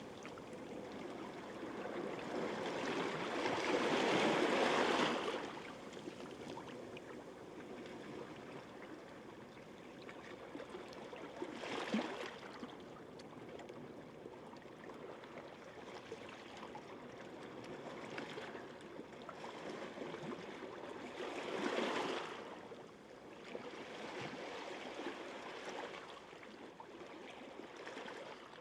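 Gentle sea waves washing onto a sandy beach, a steady wash with a few louder swells: a long one a few seconds in, a short one near the middle and another about three quarters of the way through.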